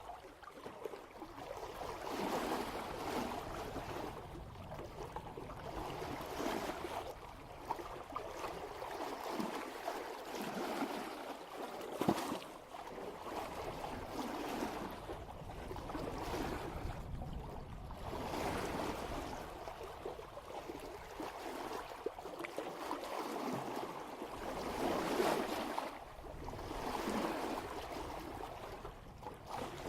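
Water washing and splashing along the bow of a sailboat moving at about 3 knots, swelling and easing every two to three seconds, with a sharper splash about twelve seconds in.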